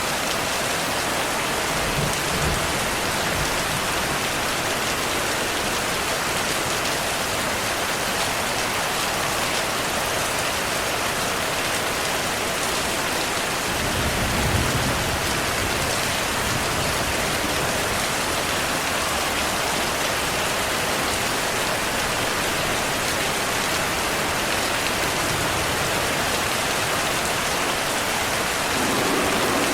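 Steady rain falling in an even hiss, with a brief low rumble about halfway through.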